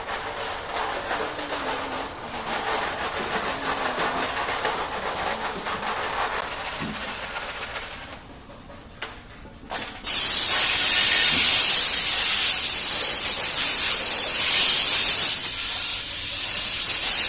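Several seconds of moderate, rushing noise, then about ten seconds in a loud, steady hiss starts abruptly and holds.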